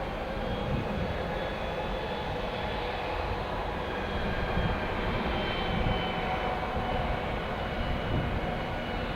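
Embraer E175 regional jet on approach to land, its twin turbofan engines giving a steady rumble with a faint high whine.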